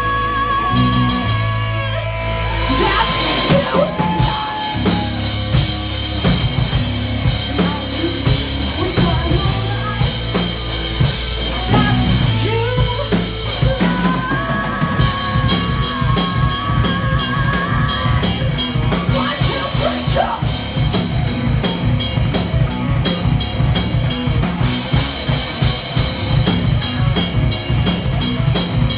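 Metal band playing live, with a full drum kit under held, wavering melody notes, breaking about halfway into fast, driving bass drum strokes.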